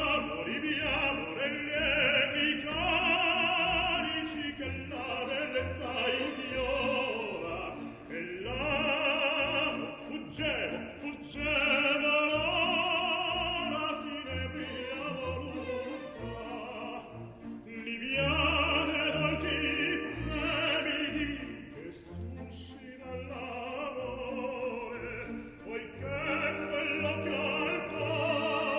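Operatic singing with vibrato over an orchestral accompaniment, in long sung phrases.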